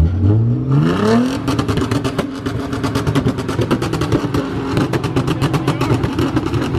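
Nissan 300ZX's 3.0-litre V6 revving up over about a second and a half, then held on the rev limiter, which cuts in and out in a rapid, steady stutter.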